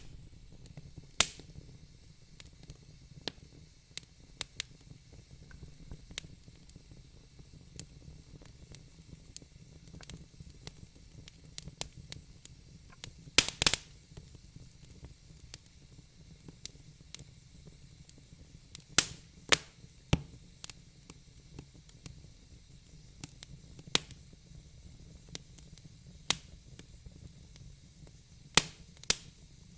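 Wood fire burning in a fireplace: a steady low hiss with sharp crackles and pops at irregular intervals, a loud cluster about halfway through.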